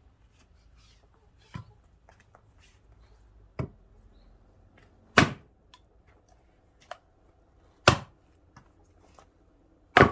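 Axe chopping oak firewood: sharp, separate strikes a couple of seconds apart, with the loudest blows in the second half.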